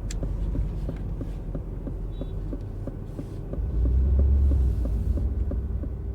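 Aston Martin Vantage's 4.0-litre twin-turbo V8 running at low speed with a low, throbbing rumble that swells briefly about four seconds in.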